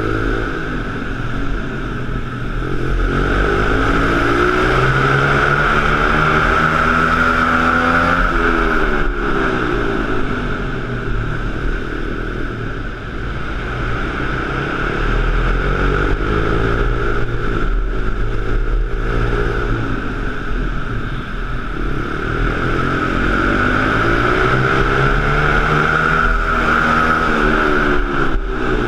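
Pit bike engines revving up and easing off over and over, the pitch climbing and dropping every few seconds, with a steady high whine underneath.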